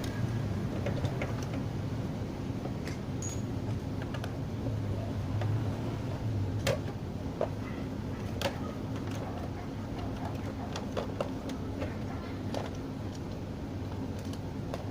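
Scattered light clicks and small knocks over a steady low hum, with two sharper knocks in the middle.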